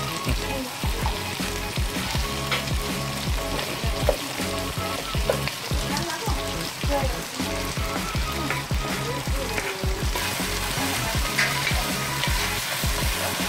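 Chicken pieces frying and sizzling in a pot, stirred and scraped with a wooden spatula as sliced tomatoes are added, with background music underneath.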